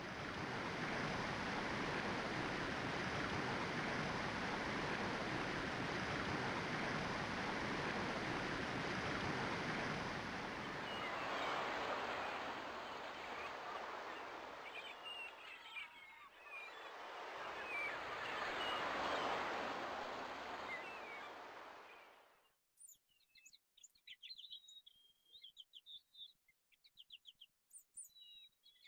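A steady rushing noise with birds chirping over it; it swells twice, then cuts off abruptly about three-quarters of the way through, leaving only scattered bird chirps.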